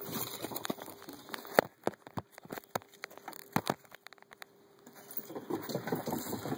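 Scattered sharp clicks and knocks, the loudest about one and a half seconds in, then rustling and crackling near the end: handling noise, with no engine running.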